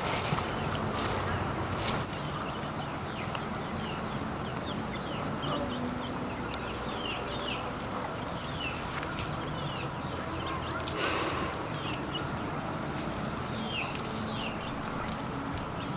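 Insects calling in a steady, high, even drone, with rapid pulsing very high up. Short, high, falling chirps repeat through it every second or so.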